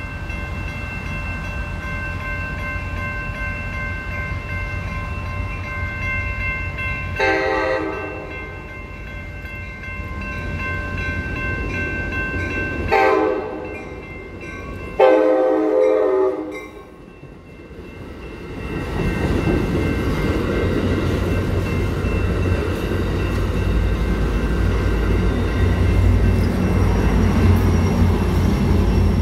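Railroad crossing's electronic bells ring steadily while an Amtrak California train sounds its horn three times, the last blast the longest. From about two-thirds in, the train rumbles steadily through the crossing.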